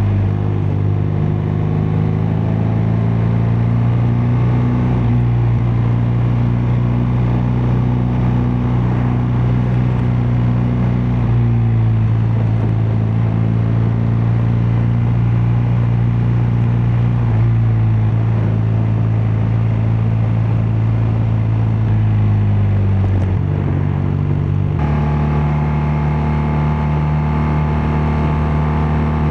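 BMW R12 nineT's air/oil-cooled boxer twin running steadily under way at cruising speed, its pitch shifting slightly a few times with the throttle. About 25 seconds in the sound changes abruptly, turning more buzzy and thinner at the bottom.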